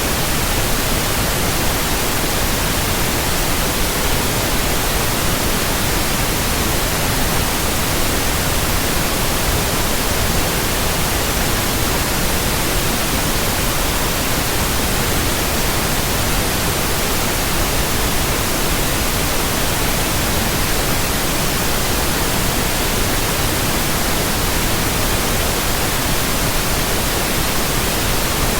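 Steady white noise: an even, unchanging hiss that spreads across all pitches from low to very high.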